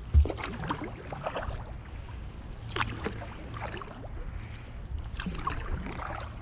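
Double-bladed kayak paddle strokes: the blades dipping and pulling through the water with drips and small splashes every second or so, over a steady low rumble. A short low thump comes right at the start.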